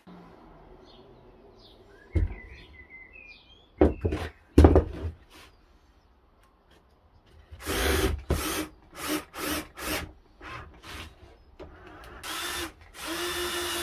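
A power drill run in a series of short bursts, its motor spinning up at the start of each one, after a few wooden knocks. Faint bird chirps can be heard in the first few seconds.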